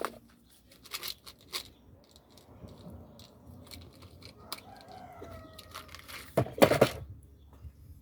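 Scattered clicks and knocks from handling a cooking pan and its handle parts, with a loud, short scraping or tearing burst about six and a half seconds in.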